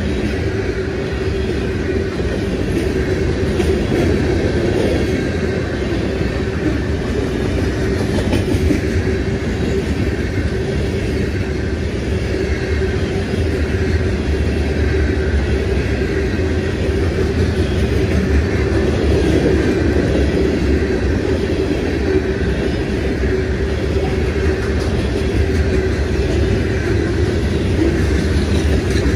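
Freight train of covered hopper cars rolling past: a steady rumble of steel wheels on the rails, with a steady tone running through it.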